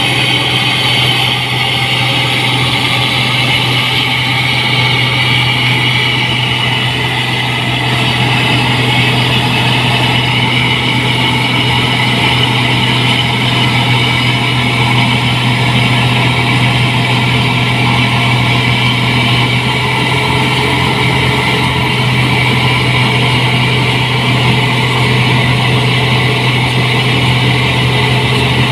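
New Holland 8060 combine harvester running steadily, an even engine and machinery drone that holds its pace, a little louder from about eight seconds in.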